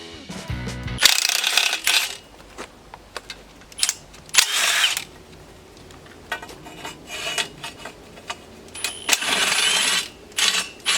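Metal parts and hand tools clinking and rattling in three short bursts, with scattered sharp clicks between them.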